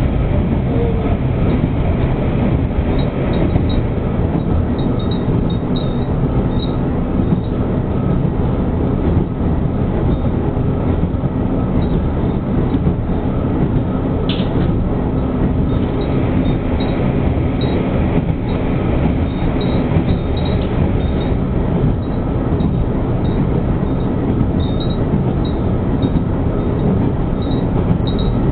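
Diesel railcar running at speed, heard from inside the passenger cabin: a steady rumble of engine and wheels on rail, with one brief sharp click about halfway through.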